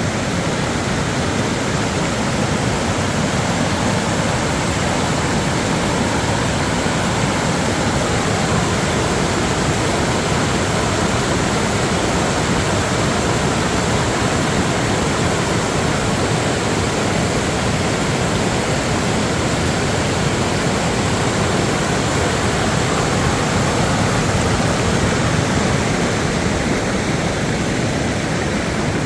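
Steady, loud rush of a rain-swollen creek running high and fast, an even roar of water with no breaks.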